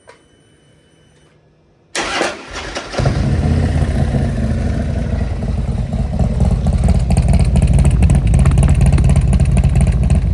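Harley-Davidson Twin Cam V-twin with a DND exhaust pipe started: the starter cranks about two seconds in, the engine catches about a second later and runs with a loud, deep exhaust rumble.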